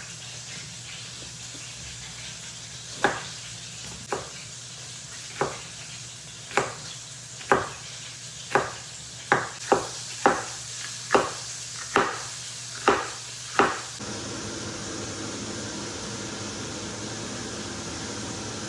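About a dozen sharp, ringing kitchen taps at uneven intervals, coming closer together toward the middle, over a steady hiss. About three quarters of the way through they stop and a steadier hiss takes over.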